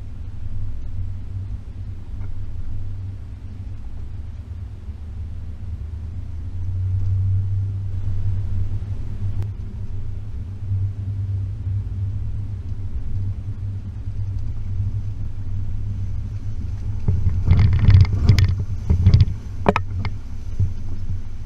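Range Rover P38's 4.0 V8 rumbling steadily while driving slowly along a rough track. A quick run of knocks and rattles comes near the end.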